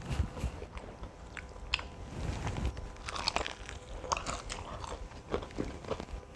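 A person biting into and chewing a crispy fried chicken leg, the breaded coating crunching and crackling irregularly, most densely in the middle.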